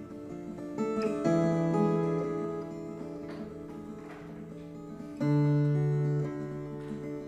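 Viola caipira, the Brazilian ten-string guitar, played slowly as a lullaby: plucked notes and chords ring on, with louder attacks about a second in and again about five seconds in.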